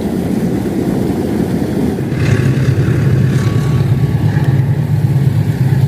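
A diesel train passing close by. Its rumble builds over the first two seconds, then settles into a loud, steady low engine drone.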